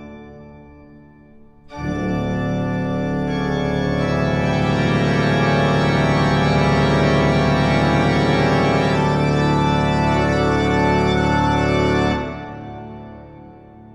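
Organ-like keyboard music: one long sustained chord of many held notes. The previous chord fades away at the start; the new chord comes in about two seconds in, holds steady for about ten seconds, then dies away near the end.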